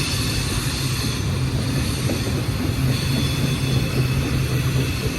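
Union Pacific intermodal container train rolling past: a steady rumble of freight car wheels on the rails, with faint high squealing tones.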